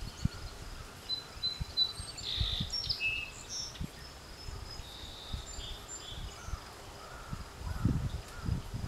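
Small birds chirping and twittering, several short high calls and quick repeated notes, with a few soft low thumps and bumps underneath.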